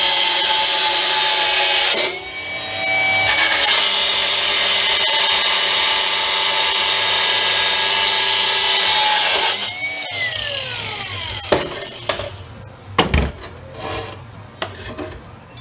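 A power tool's spinning cutoff wheel cutting through a metal bar. It makes a loud, steady high whine with grinding noise that eases for about a second, two seconds in, then bites again. About ten seconds in the cut stops and the whine falls away as the wheel spins down, followed by a few metal clinks and knocks.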